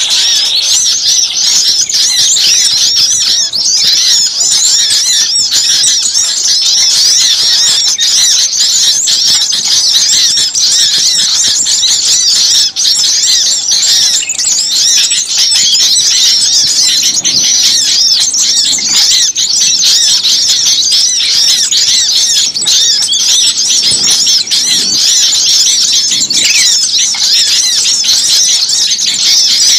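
A noisy chorus of many small songbirds chirping and twittering at once, a dense unbroken stream of rapid high-pitched calls. This is a bird-lure (pikat) recording of agitated small birds, played to draw other small birds in.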